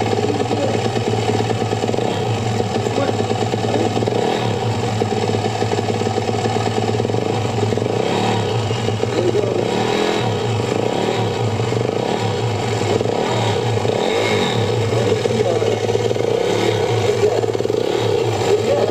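Yamaha YZ450F dirt bike engine running, its revs rising and falling a little.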